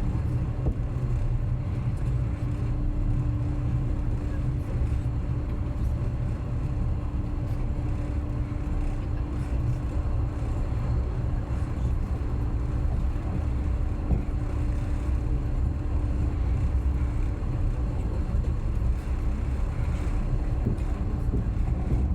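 Passenger train running on the line, heard from on board: a steady low rumble of wheels on the rails, with a steady hum that fades out about halfway through.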